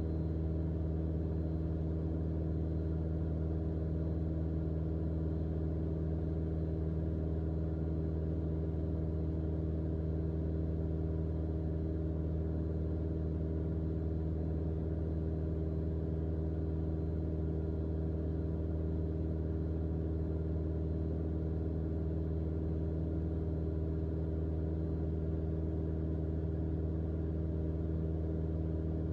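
Cockpit drone of a Mooney M20J's four-cylinder Lycoming IO-360 engine and propeller in steady level cruise, an even, unchanging hum with a low tone.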